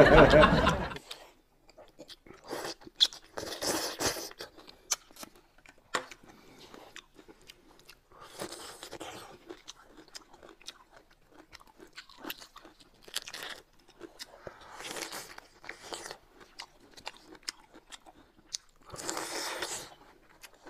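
Close-miked eating sounds: chewing with scattered wet mouth clicks and smacks, and a few short crunchy bursts every few seconds.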